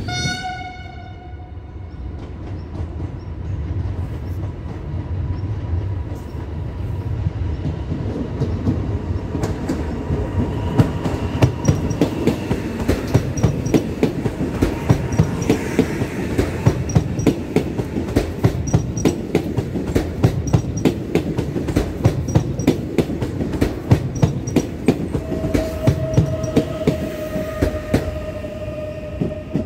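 PKP Intercity ED161 Pesa Dart electric multiple unit passing through the station: a low rumble, then a long run of rhythmic clickety-clack from its wheels over the rail joints. A tone in the first second fades out, and a different steady tone sounds near the end.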